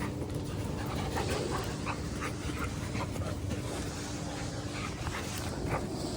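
A large dog panting, with short high sounds scattered through, over a steady low rumble.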